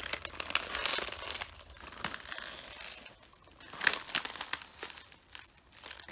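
Red cabbage leaves crunching and crackling underfoot as they are walked on, with one loud sharp crunch a little past the middle.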